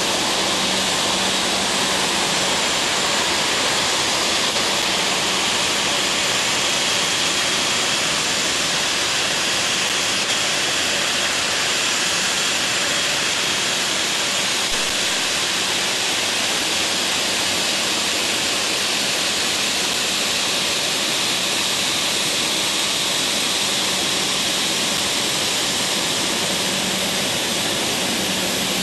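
Jet aircraft engines running, a steady even rush with a faint low hum and no change in level.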